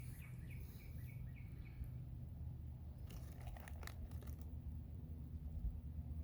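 Quiet outdoor ambience with a low steady rumble. A bird calls in a quick series of short falling chirps, about four or five a second, through the first two seconds. A few sharp clicks follow about three seconds in.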